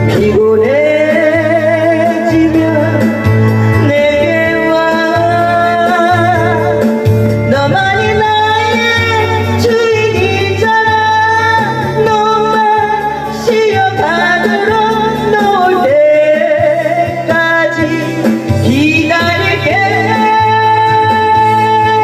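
A trot song performed over a backing track: sung melody with wavering, held notes over a steady bass beat.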